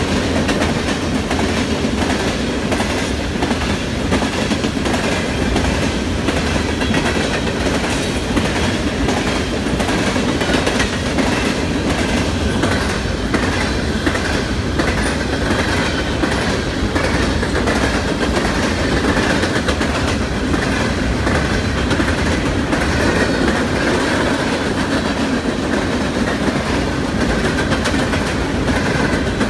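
Norfolk Southern freight train of open-top coal hoppers and gondolas rolling past close by: a steady loud rumble with wheels clicking over the rail joints. A faint high wheel squeal comes in about halfway through.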